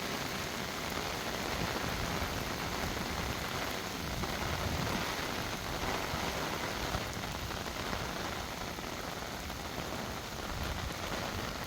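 Heavy rain falling, a steady dense hiss of drops with no break.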